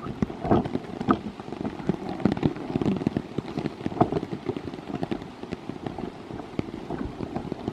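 Rain falling, a dense, irregular patter of drop taps.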